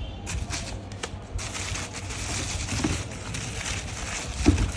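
Packaging being handled: rustling and crinkling, with scattered clicks and a louder knock near the end.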